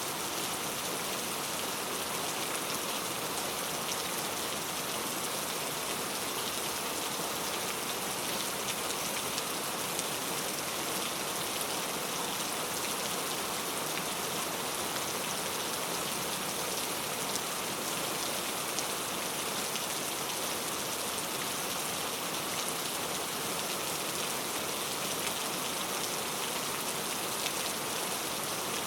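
Heavy rain falling steadily on mango tree leaves, a dense even hiss full of fine drop patter.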